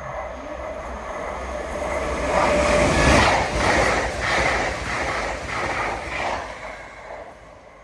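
An LNER Azuma Class 800 high-speed train passing through the station without stopping: its sound builds to a peak about three seconds in, with a rhythmic clatter of wheels as the carriages go by, then fades away.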